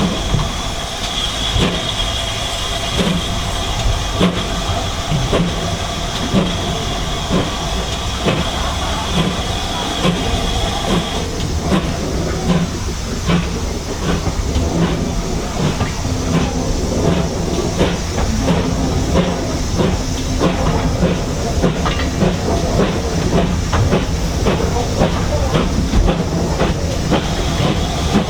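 Steam-hauled train on the move: steady rumble with wheels clicking over rail joints, and a steady high hiss that stops about eleven seconds in and comes back near the end.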